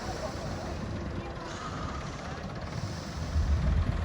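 Vintage tractor engines running as tractors pass on the road, with a low rumble that grows louder near the end as one comes closer.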